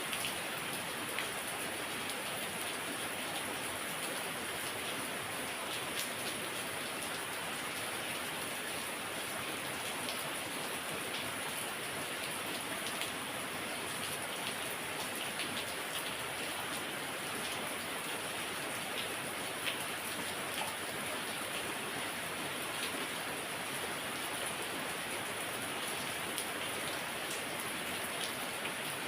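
Heavy rain falling steadily, a dense even hiss with individual drops pattering on surfaces.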